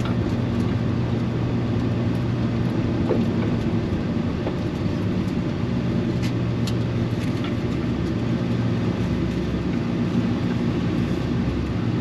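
Chevy C-10 pickup truck driving, heard from inside the cab: a steady low engine drone with road noise.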